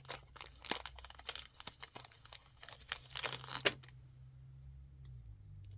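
Crinkly packaging rustling and crackling as it is handled, with a run of sharp crackles that stops about four seconds in.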